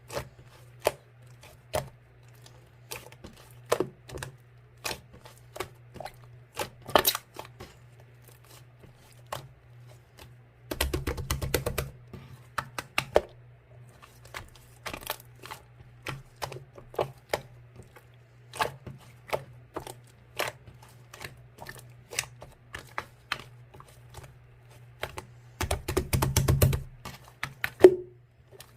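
Slime being pressed and poked by hand, giving sharp clicks and pops every second or so, with two stretches of rapid crackling, about eleven seconds in and near the end.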